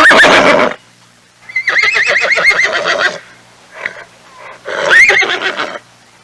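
Horse whinnying three times: a short call at the start, a long call with a fast quavering pitch about a second and a half in, and a shorter call rising in pitch about five seconds in.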